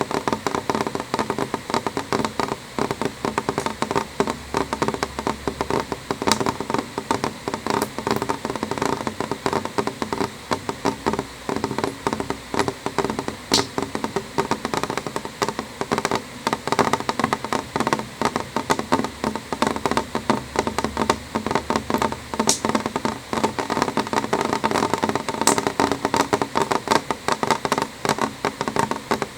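Rain falling steadily on a window pane: a dense, even patter of small drops tapping the glass, with a few sharper single drips standing out now and then.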